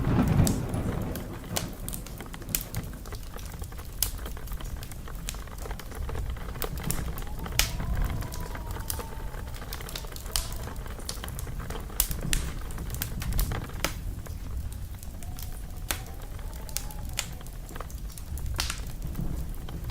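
Fireplace fire crackling: irregular sharp pops and snaps over a steady low rumble of the flames. A faint whistle rises and falls twice, about eight and sixteen seconds in.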